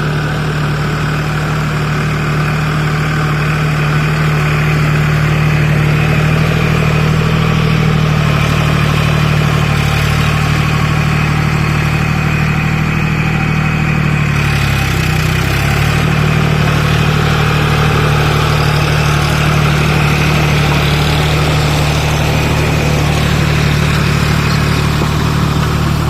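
Tractor engine running steadily and loud while working the field, its pitch dipping briefly about halfway through before settling again.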